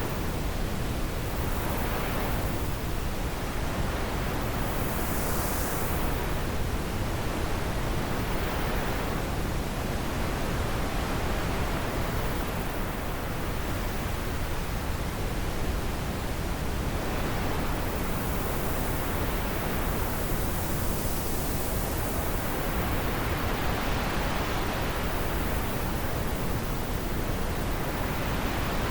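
Steady wind, a dense even hiss with slow swells in its upper register every few seconds.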